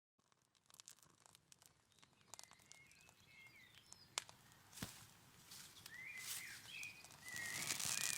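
Faint outdoor ambience fading in from silence, with small birds chirping several times and a few scattered clicks. A hiss grows louder over the last two seconds or so.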